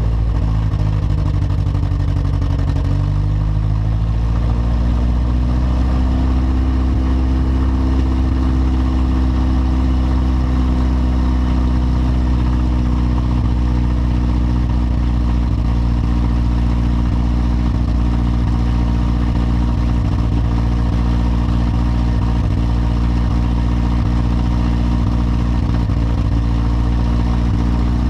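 Light aircraft piston engine running at run-up power before takeoff. Its speed dips slightly in the first few seconds, climbs back, and then holds steady.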